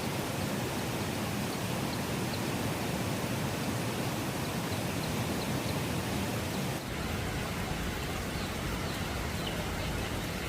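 Steady rain, an even hiss. About seven seconds in the sound changes abruptly and carries more low rumble.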